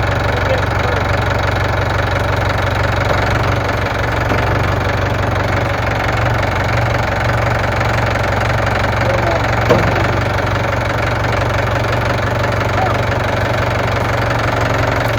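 Engine of a loader-type machine running steadily with a deep, even rumble, with a brief clunk about ten seconds in.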